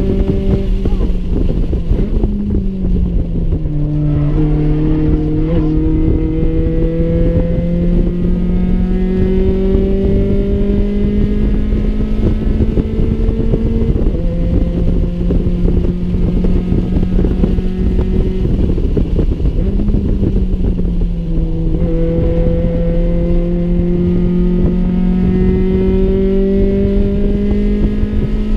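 Honda D16A6 1.6-litre SOHC four-cylinder engine running hard on track, heard from inside the Civic's cabin. Its pitch climbs slowly through long stretches and drops suddenly a few times. Steady wind and road noise runs under it.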